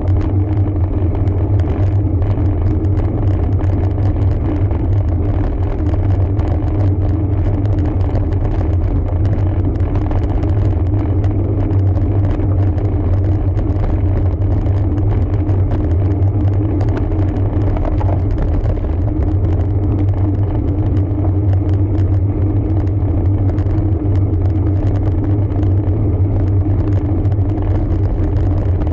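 Steady low rumble of a road bike in motion: wind on the microphone and the tyres running on the road.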